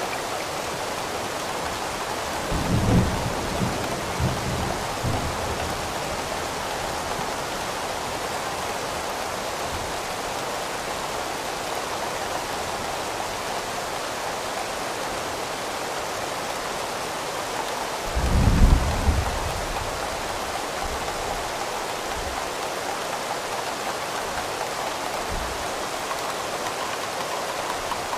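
Steady rain falling, with two low rumbles of thunder, the second one, about two-thirds of the way in, the louder.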